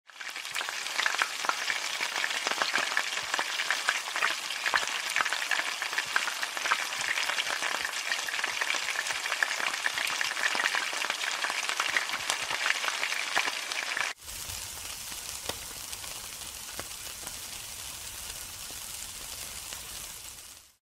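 Hot oil sizzling and crackling as food fries in a wok over a gas flame. About fourteen seconds in it cuts suddenly to a quieter, steadier sizzle.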